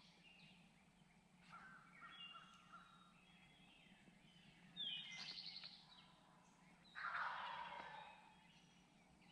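Wild turkey gobblers gobbling: a rapid rattling gobble about five seconds in and another rough burst about two seconds later, with fainter bird calls before them.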